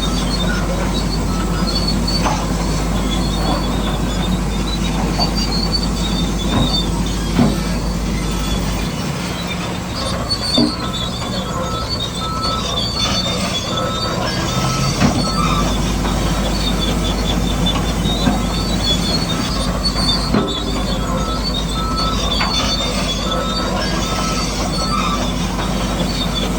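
Radio-controlled model bulldozer working: a steady motor hum with squealing and squeaking from its tracks and scattered small knocks. A rapid beeping runs for several seconds around the middle and again near the end.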